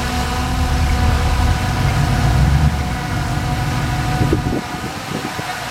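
Large bulldozer's diesel engine running under load. The deep engine sound swells around two seconds in, then drops away sharply about four and a half seconds in, leaving a lighter, steady running sound.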